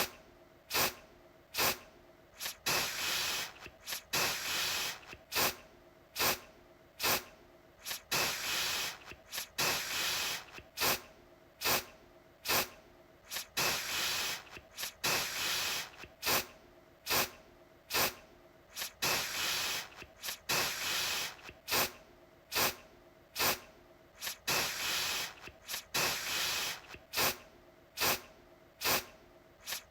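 Aerosol deodorant can spraying in short, repeated hissing bursts, one quickly after another, each starting sharply.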